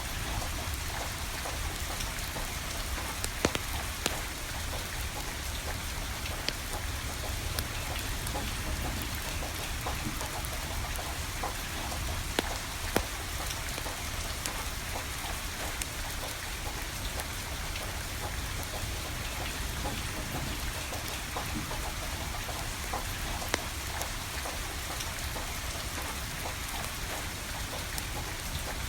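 Steady rain falling, with a wood fire crackling beneath it and a few sharp pops from the burning firewood.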